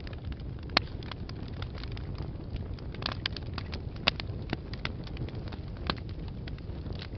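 Wood fire burning in a fireplace: a steady low rumble with irregular sharp crackles and pops, a few louder snaps standing out among them.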